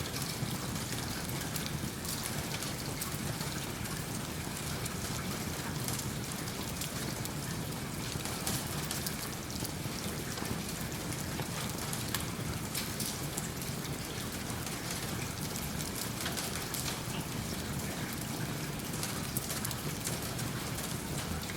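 Steady rain falling, with fine crackling running through it that fits a log fire burning in a fireplace.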